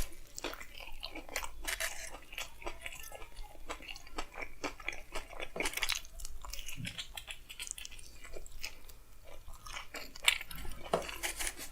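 Close-miked chewing of a chicken frankie roll: irregular crunching mouth clicks at an uneven pace.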